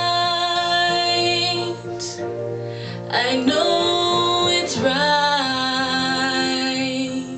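A woman singing solo over acoustic guitar accompaniment. There are two sung phrases with long held notes, split by a short pause about two seconds in.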